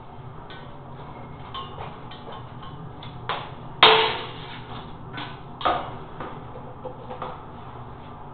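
Irregular knocks and clinks of hard objects struck together, about eight in all. The loudest is a sharp strike about four seconds in, with a short ring after it.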